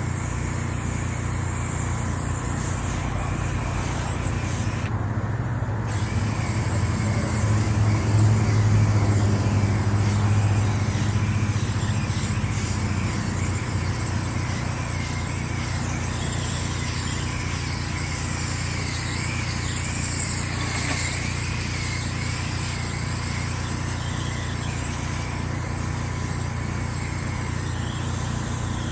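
Gas pressure washer engine running steadily with water spray hiss, swelling louder for a few seconds near the middle.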